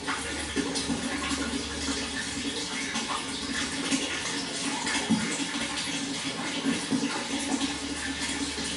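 Water flowing steadily, a continuous rushing and splashing.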